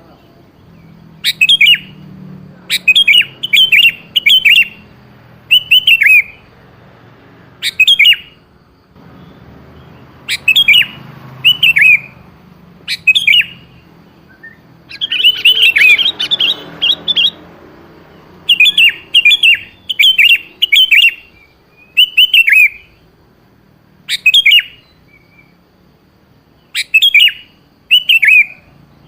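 Sooty-headed bulbul (kutilang) singing: short bubbly phrases of a few notes, repeated every second or two, with a longer run of notes about halfway through.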